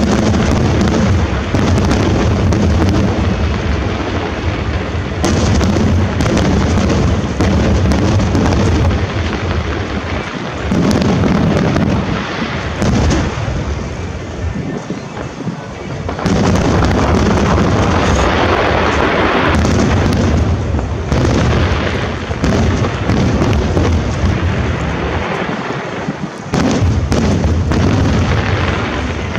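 Aerial fireworks shells bursting in a rapid, near-continuous barrage of booms, with a few brief lulls.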